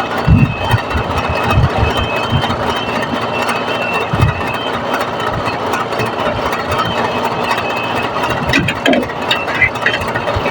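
An engine running steadily, with scattered low knocks and a few short clicks near the end.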